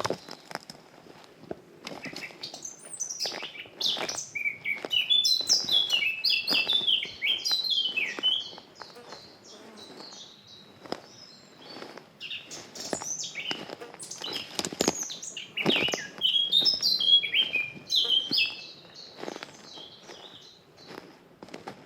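A songbird singing two long, rapid phrases of quick stepping whistled notes, one starting about three seconds in and one about twelve seconds in. Soft footsteps on a forest path tick beneath the song.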